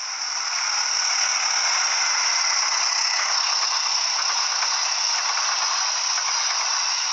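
A train passing close by: a steady rattling hiss of wheels on the rails, rising in the first second and then holding even.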